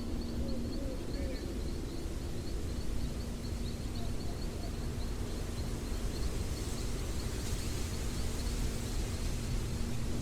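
Outdoor nature ambience: a steady low rumble of noise, with a high, thin chirp repeating about four times a second that fades out about halfway through. A soft hiss swells briefly near the middle.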